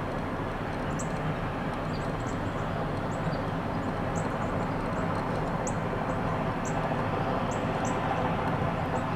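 Heavy earthmoving equipment, trackhoes and bulldozers, running steadily as a constant low engine rumble. Short, faint high chirps recur over it.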